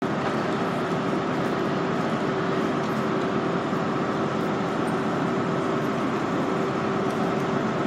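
Steady hum of trains standing at a mainline station platform under the trainshed, with a constant mid-pitched drone over even rumbling noise.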